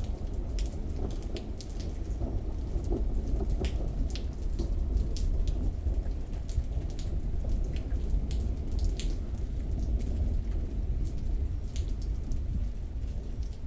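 Thunderstorm rain falling steadily, with many scattered sharp drop hits over a continuous low rumble of thunder.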